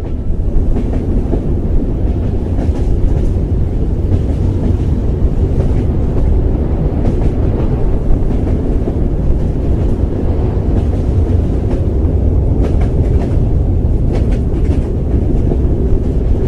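A loud, steady low rumble that begins abruptly as music cuts off, with faint ticks or rattles near the end.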